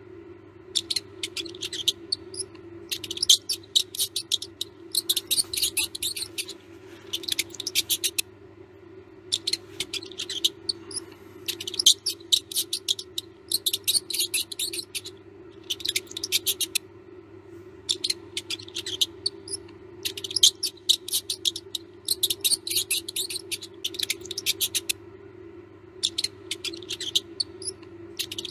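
Mouse squeaking and chittering in repeated quick bouts, each about a second long with short pauses between, over a steady low hum.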